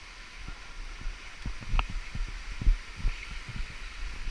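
Irregular soft low thumps, a few a second, with a single faint click about two seconds in.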